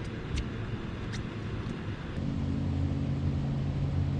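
A few sharp clicks, then a boat motor's steady low hum comes in about halfway through.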